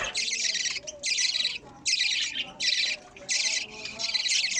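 Budgerigar chicks giving a run of about six harsh, rasping begging calls, each about half a second long with short gaps between.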